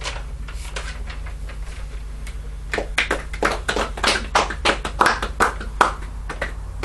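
A small audience applauding: scattered claps that thicken into a short burst of clapping a few seconds in, then thin out.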